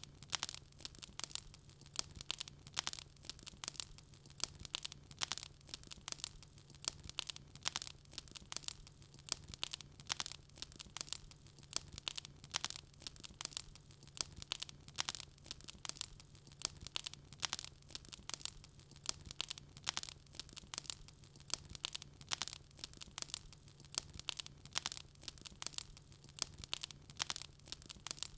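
Wood fire crackling: a dense, irregular run of sharp pops and snaps, several a second, over a faint steady low hum.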